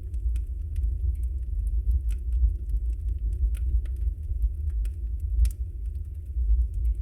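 Wood fire burning in a fireplace: a steady low rumble of the flames with scattered sharp crackles and pops, one louder pop about five and a half seconds in.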